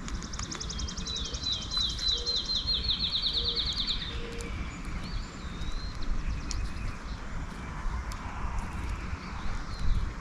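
A songbird's rapid, even trill that rises slightly in pitch and lasts about four seconds before stopping, followed by a few faint scattered chirps, over a steady low outdoor rumble.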